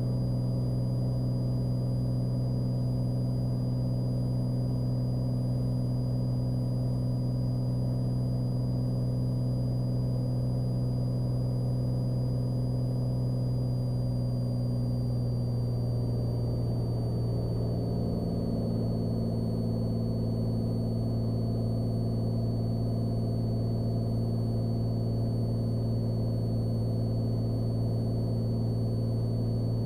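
Cessna Skylane's single piston engine and propeller droning steadily in flight, heard inside the cabin. The pitch of the drone shifts slightly about 15 to 18 seconds in.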